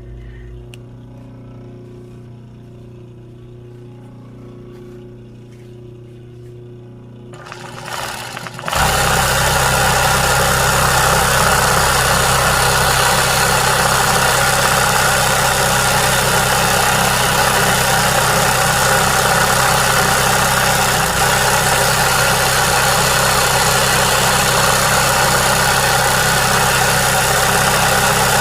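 An electric sewing machine starting up about eight seconds in and then running steadily at high speed, as in machine embroidery; before it starts there is only a faint low hum.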